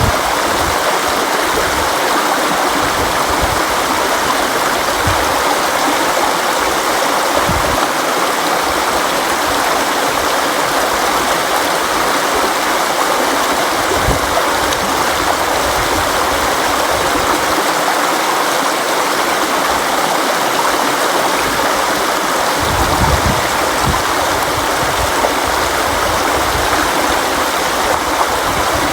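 A river flowing, a steady, even rush of water with occasional low rumbles.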